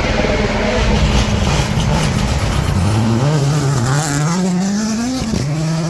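Rally car engine under hard acceleration: its pitch holds, drops about halfway through, then climbs steadily and drops sharply again near the end, as with upshifts.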